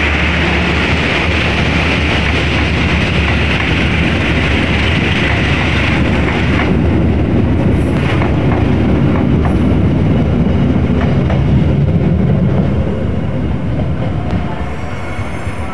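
Passenger train coaches rolling past, their wheels rumbling and clattering on the rails. A steady hiss stops about six seconds in, sharper clacks follow, and the sound eases off near the end as the last coach moves away.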